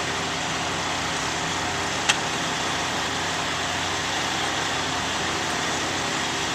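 Vehicle engine idling steadily, a constant low hum and rumble, with a single short click about two seconds in.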